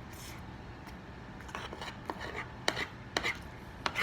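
A man eating: chewing food, with soft scraping and a few sharp utensil clicks in the second half.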